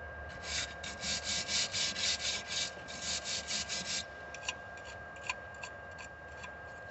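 Quick scraping strokes, about four a second, cleaning slag off a fresh stick weld, stopping at about four seconds and followed by a few light taps.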